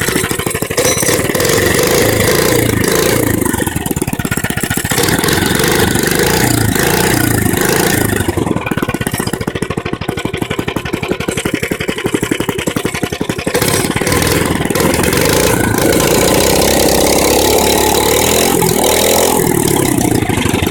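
Mini bike's small single-cylinder engine running loud just after starting, revved up and down with the throttle and backfiring a little. It revs up and back down again near the end.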